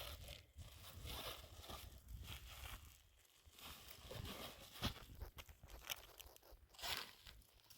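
Faint rustling and crunching handling noises, with a few soft knocks, the sharpest about five and seven seconds in.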